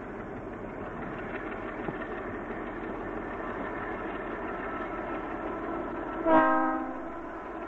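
DX class diesel-electric locomotive running with a freight train, a steady rumble growing slowly louder. About six seconds in it gives one short horn blast, the loudest sound, which fades within a second.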